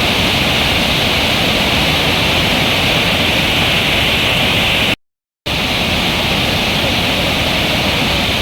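Jamjir waterfall on the Shingoda river, swollen with monsoon water, pouring with a steady, loud rush. The sound cuts out to dead silence for about half a second, five seconds in, then returns unchanged.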